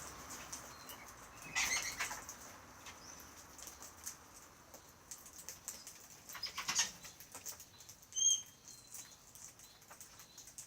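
Australian king parrots' wings flapping in two flurries, about two seconds and seven seconds in, with scattered small clicks of birds moving about and a short high whistled call a little after eight seconds.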